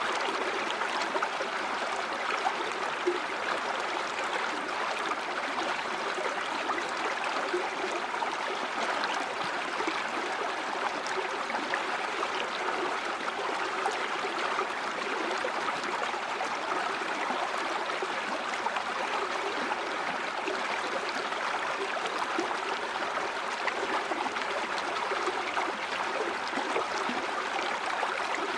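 A river or stream flowing steadily over rocks, a continuous rushing and gurgling of water.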